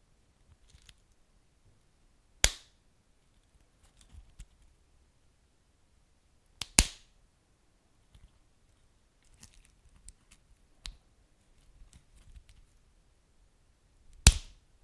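Wood fire crackling: scattered small crackles and four loud sharp pops, two of them in quick succession midway, over a faint low rumble.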